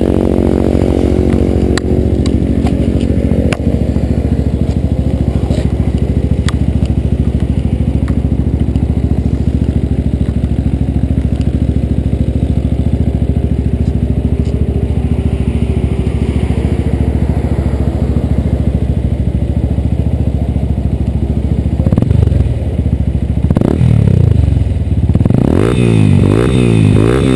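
Yamaha Ténéré 250 single-cylinder four-stroke engine, fitted with an aftermarket Roncar Coyote exhaust, idling steadily, then revved twice and blipped in quick succession near the end.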